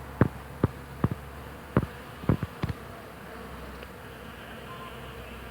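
Many bees humming steadily in flowering hawthorn, a continuous drone, with several short sharp clicks scattered through it.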